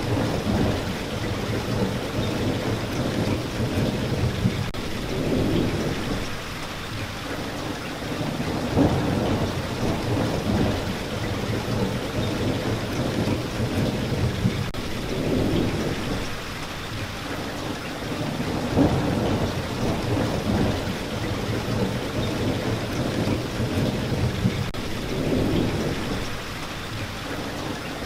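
Steady rain with low rumbles that swell and fade every few seconds.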